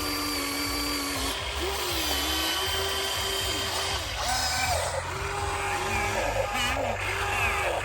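Radio-controlled hydraulic excavator's electric pump motor whining, its pitch dipping and rising again every second or so as the hydraulics take load while the machine digs.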